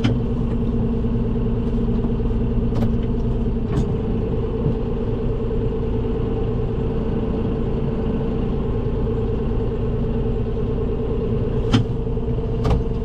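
Farm tractor engine running steadily while working, with a few short sharp knocks from the machine, the loudest about twelve seconds in.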